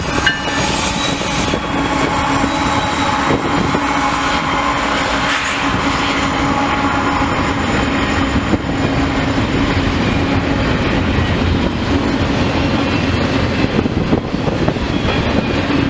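CN freight train rolling past: a steady rumble and clatter of the cars' wheels on the rail, with a faint held tone over it. The tail of the locomotive's horn cuts off right at the start.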